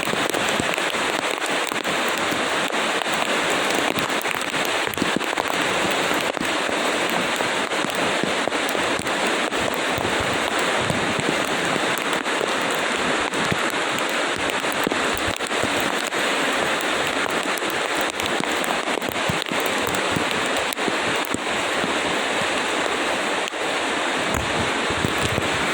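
Steady rain falling, a dense even hiss with many short, sharp drop hits all through.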